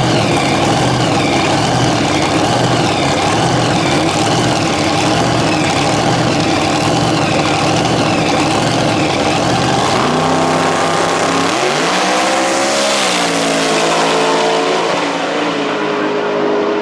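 Race car engine running hard, then revving: about ten seconds in its note rises steeply in pitch, falls back and settles into a steady tone.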